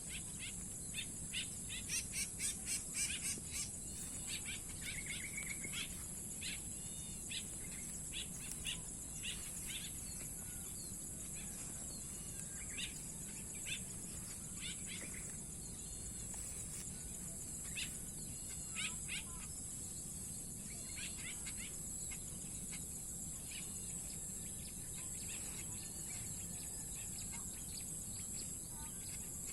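Swallows giving short, scattered chirping calls, busiest about two to three seconds in, over a steady high-pitched insect buzz.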